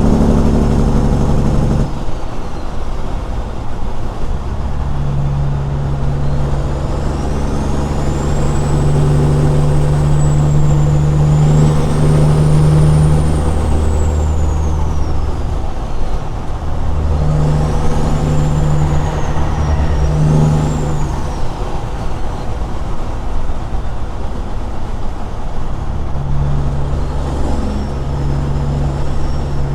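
Straight-piped Caterpillar 6NZ diesel in a Peterbilt truck running on the road, its engine note shifting up and down in steps as it pulls. A faint high whistle rises and falls a few times over it.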